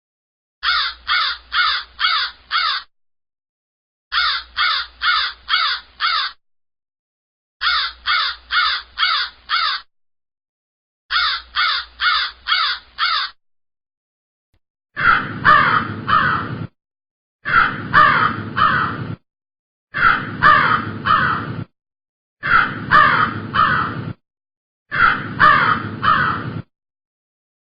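Crow cawing sound effect, used as the stock cue for an awkward silence: four runs of five quick caws, each run about two seconds long, then a second, fuller-sounding version played as five runs of about four caws.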